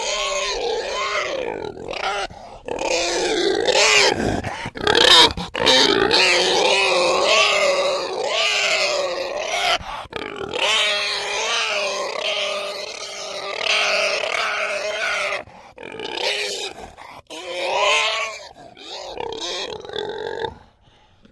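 Farm animal calling: a near-continuous run of loud, pitched calls that bend up and down in pitch, broken by a few short pauses.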